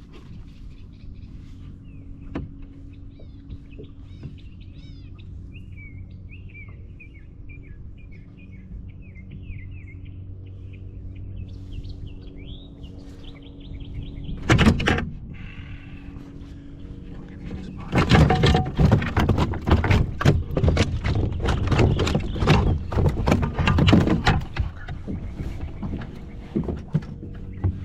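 Birds chirping in the first half; then a loud knock about halfway, followed by a long, rapid flurry of knocks and rattles: a spotted bass thrashing against the kayak and measuring board as the angler tries to hold it still.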